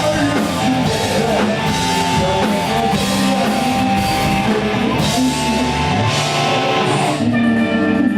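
Live rock band playing in a concert hall: electric guitar over drum kit and bass, loud and dense. About six seconds in the deep low end drops away, leaving held guitar notes as the song winds down.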